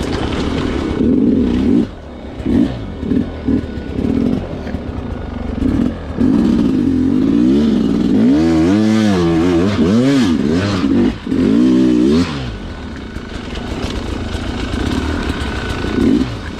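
Sherco two-stroke dirt bike engine revving up and down in short throttle bursts, with a quick run of rising-and-falling blips in the middle, over some clatter from the bike.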